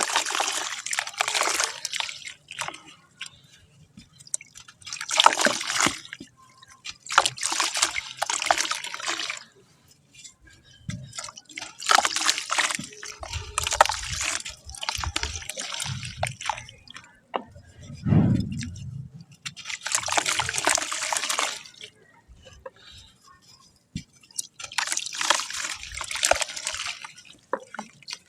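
Wet black sand crumbling and splashing in water, in repeated bursts a few seconds apart, with a low thud about two-thirds of the way through.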